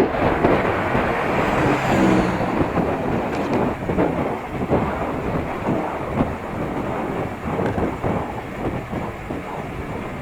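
Wind buffeting a bicycle-mounted camera's microphone while riding on the road: a loud, uneven rumbling rush with no clear rhythm.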